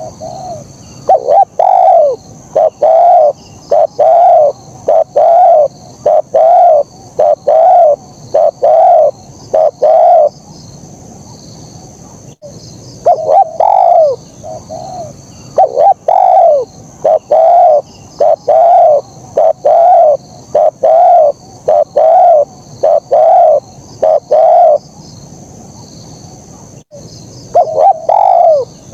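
Spotted dove (terkukur) cooing: a long run of short, low, mellow coos at a little more than one a second. The run breaks off twice for about three seconds before starting again. A faint steady high-pitched hiss sits behind it.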